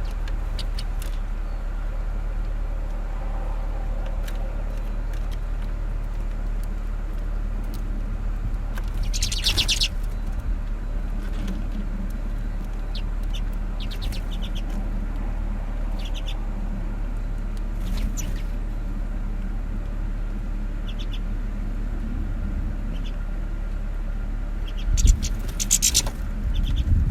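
Small finches at a feeder giving short bursts of rapid, high, twittering calls every few seconds, loudest near the end, over a steady low background rumble.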